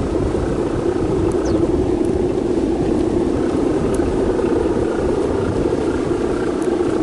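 Strong wind blowing steadily and buffeting the microphone with a choppy low rumble.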